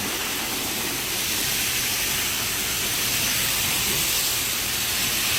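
CHAOLUN high-velocity pet hair dryer blowing a steady rush of air, a constant hiss.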